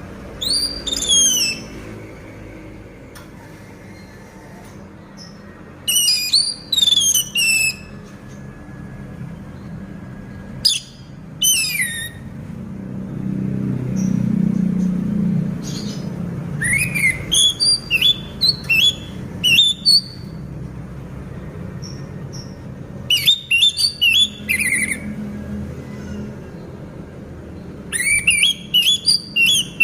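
Orange-headed thrush in moult singing: about six bursts of quick, high whistled notes that slide downward, with pauses of a few seconds between them.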